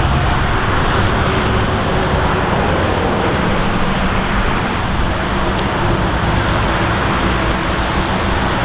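Airbus A350-900's Rolls-Royce Trent XWB jet engines heard as a loud, steady noise with a faint low hum and no changes in level.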